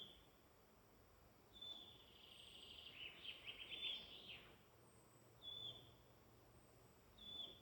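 Faint woodland birdsong: one bird repeats a short high call about every two seconds, while another sings a longer, rapidly trilling phrase in the middle.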